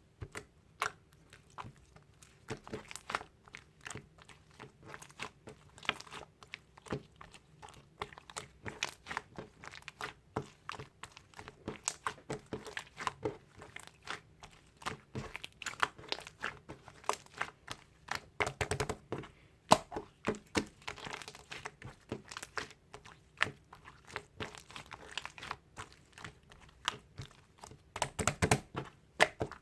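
Slime being squished, pressed and stretched by hand: a continuous irregular run of sticky pops, clicks and crunchy crackles.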